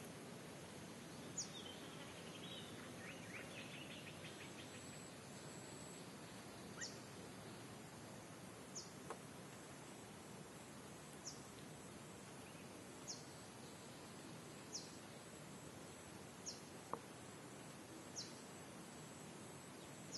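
Faint steady hiss with a short, high chirp that falls in pitch, repeated eight times at roughly two-second spacing, like a small bird calling. About two seconds in there is a brief run of rapid twittering.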